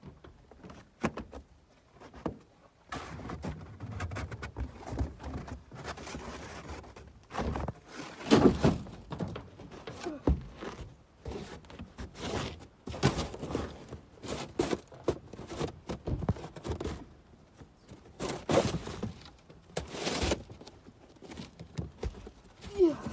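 Irregular thuds and knocks with scraping and shuffling, from things being handled and cleared out of a pickup truck bed. The loudest knocks come about eight seconds in.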